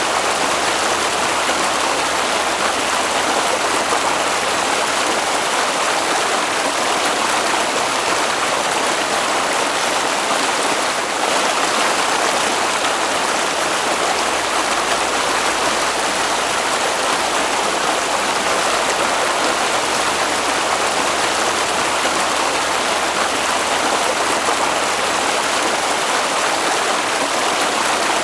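Flowing stream water, a steady even rush of running water.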